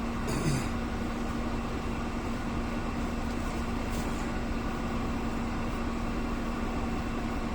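Steady mechanical hum with one constant low tone, and a brief knock or rustle about half a second in.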